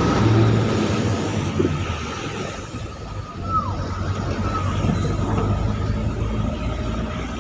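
Road traffic on a rain-wet road: vehicle engines rumbling with a hiss of tyres on the wet surface, louder in the first couple of seconds.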